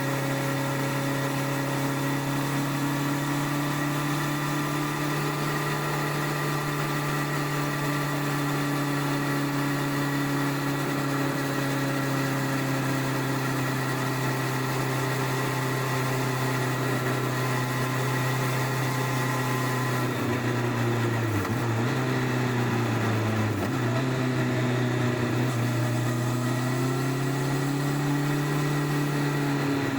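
The 1999 Honda CBR1100XX Blackbird's stock-exhaust inline-four engine, heard under way from beneath the rear seat. It holds a steady note, then about two-thirds of the way through the pitch dips sharply twice and climbs steadily as the bike accelerates.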